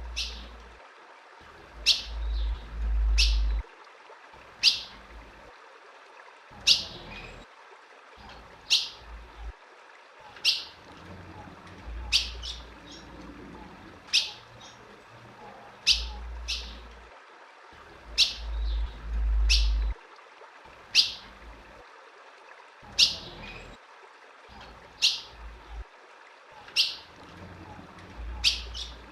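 Female ultramarine grosbeak (azulão) giving short, sharp, high chip calls, one every second or two, the kind of female call used to stir up male azulões.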